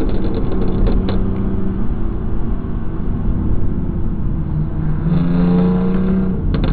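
A car's engine and road noise inside a moving car at highway speed: a steady engine drone that grows louder and slightly higher about five seconds in, then eases. A few short sharp clicks are heard near the start and again near the end.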